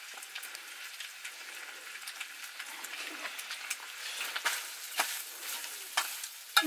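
Food frying in a pan: a steady sizzle, with a few sharp knocks in the second half.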